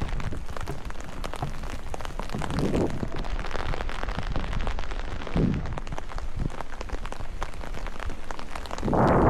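Rain falling and dripping in a forest: many small drop ticks over a steady low rumble, with a few heavier muffled thuds, the loudest near the end.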